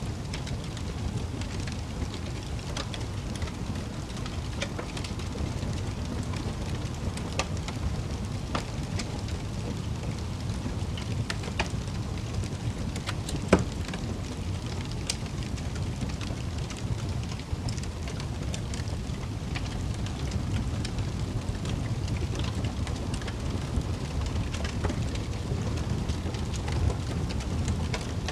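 Wood fire crackling in a fireplace: a steady low rumble of flame with scattered sharp pops and snaps, one louder pop about halfway through.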